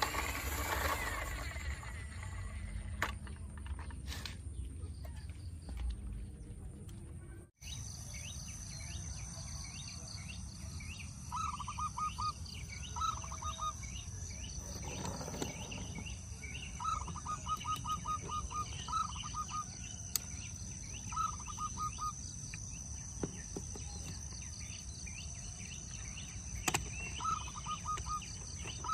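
Outdoor ambience with a bird calling in short bursts of rapid repeated chirps, over a steady high drone and a low rumble. The sound drops out briefly about seven seconds in.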